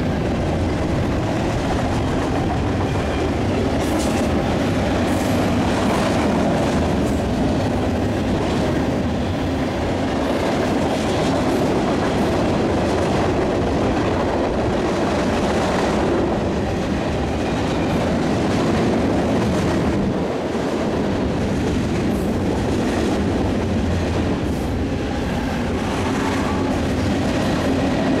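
Freight cars of a passing train rolling along the track: a steady rumble of steel wheels on rail with scattered clicks.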